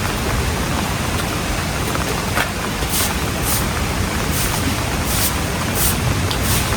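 Heavy rain and rushing floodwater: a steady, loud, even hiss. Brief high hissing flicks come through it about every half second from around three seconds in.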